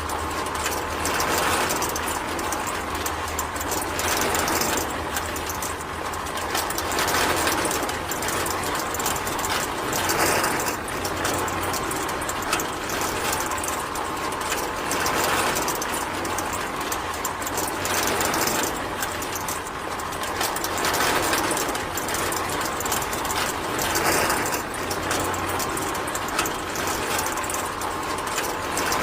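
A small mechanism running with a dense clicking and whirring, swelling and easing every few seconds.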